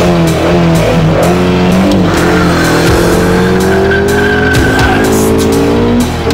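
Honda CRX's 1.6-litre 16-valve four-cylinder engine pulling hard, its pitch climbing steadily as the car accelerates, with a high steady squeal for a few seconds in the middle. Heavy rock music with a pounding beat plays over it.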